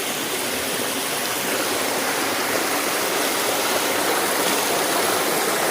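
Waterfall: water falling and running over rocks in a steady, unbroken rush.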